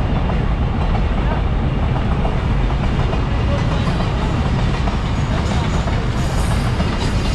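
Container freight wagons rolling past at close range: a loud, steady rumble of wheels on rail with no let-up.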